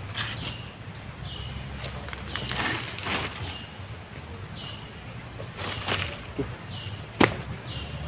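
A small bird's short high chirp repeated about once a second, each note dipping slightly in pitch, over rustling and clicking of leaves and twigs as a teak branch is handled to set glue sticks; a sharp snap about seven seconds in is the loudest sound.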